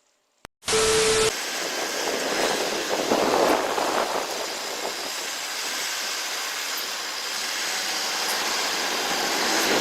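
A short loud burst with a single steady tone about a second in, then steady rushing vehicle noise with no clear engine note.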